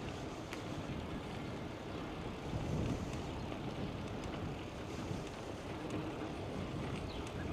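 Wind rushing over the microphone of a camera mounted on a moving bicycle, with the low rumble of the tyres rolling on the path. A steady noise, swelling slightly about three seconds in.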